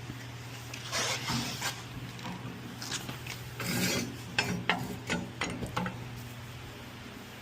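Hand tools working on car suspension: a ratchet wrench clicking in short, uneven runs, with scraping metal-on-metal handling noises. A steady low hum runs underneath.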